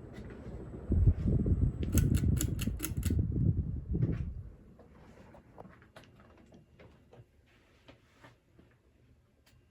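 Craftmade CXL ceiling fan with a 188x15 spinner motor running, under a loud low rumble for the first four seconds or so. About two seconds in there is a quick run of about six sharp clicks. After that it drops to a faint hum with scattered light ticks.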